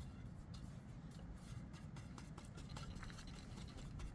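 A paintbrush scraping on wood in short, irregular strokes as paint is brushed onto a tree branch, over a low rumble.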